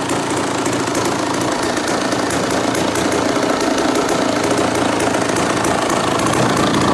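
A 1994 Honda CR250's single-cylinder two-stroke engine running steadily, with a fast, even rattle from its firing.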